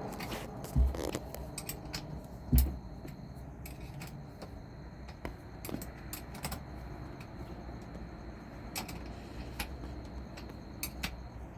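Light metallic clinks and taps of a jet ski's battery cable terminals and hand tools being fitted, with two dull thumps in the first few seconds.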